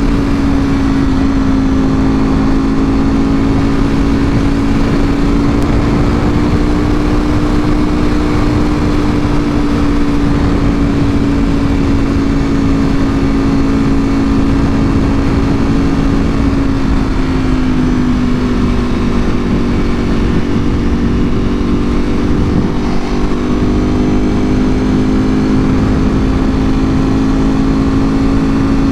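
2024 Ducati Panigale V4R's 998 cc V4 running through an Akrapovic full exhaust at a steady cruise, its note dipping slightly a little past halfway as the throttle eases, then climbing back. A steady rushing noise runs underneath.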